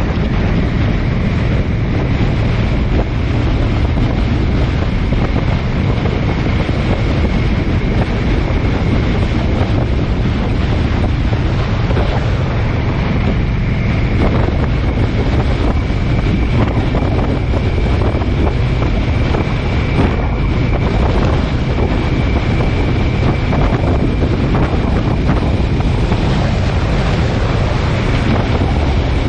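Steady loud rushing wind buffeting the microphone, with a faint high steady whine held throughout.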